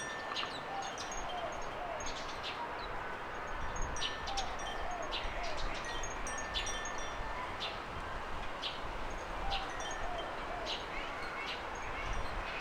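Garden birds calling: many short, high chirps from several birds, with a lower call of short hooked notes repeated now and then. Underneath runs a steady background hiss.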